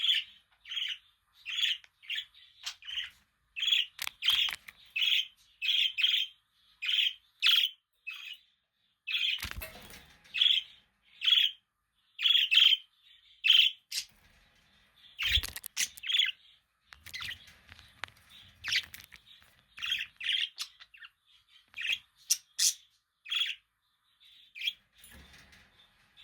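Budgerigar chirping: a quick run of short, sharp chirps, about two a second, thinning out in the second half. Two dull knocks, around ten and fifteen seconds in.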